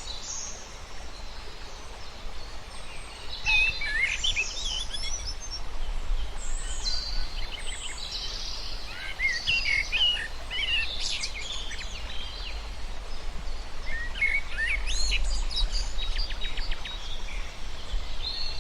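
Several birds chirping and calling in quick, overlapping bursts that come and go, over a steady low rumble.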